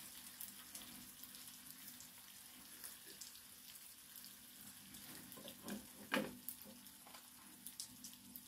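Corned beef frying in a pan on a gas stove: faint, steady sizzling with fine crackles. A couple of light knocks come about six seconds in.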